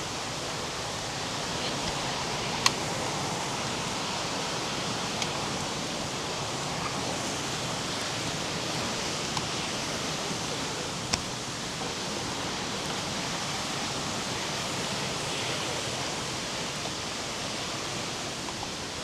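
Steady rush of flowing water, an even hiss with no change in level, broken by a few brief sharp clicks.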